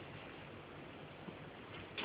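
Faint, steady hiss of room noise with a single soft tap near the end.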